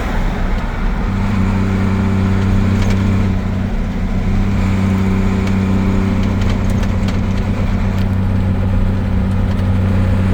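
Truck engine running steadily at road speed, heard inside the cab over road and tyre noise; the steady engine note breaks up briefly and settles again about a second in.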